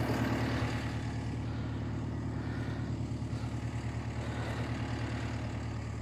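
Diesel engine of a Volvo tracked skid steer running steadily, a little louder in the first second.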